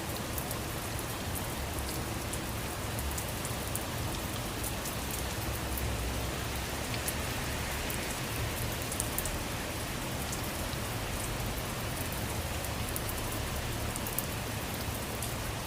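Steady rain falling, an even hiss with many small drop ticks throughout and a low rumble underneath.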